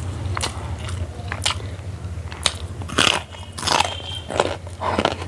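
Close-miked mouth sounds of a person eating: chewing with a run of sharp bites and crunches, about seven of them, the loudest about three seconds in and near the end.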